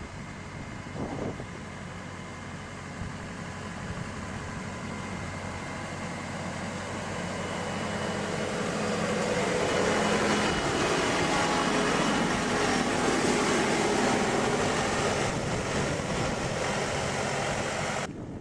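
A heavy machine's engine running steadily with a mechanical drone. It grows louder about halfway through, then cuts off abruptly near the end.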